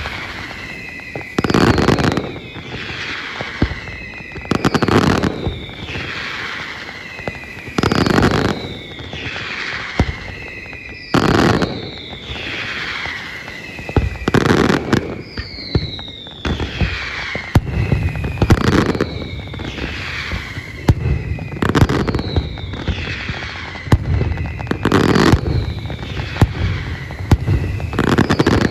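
Aerial fireworks display: loud shell bursts every second or two, each followed by a falling whistle-like tone. From a little past halfway the bangs come thicker, a rapid run of cracks and booms.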